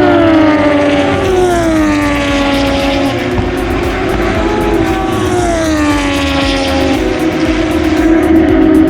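Racing motorcycles passing at speed, each engine note sliding down in pitch as it goes by, several times over; a steadier engine note holds near the end.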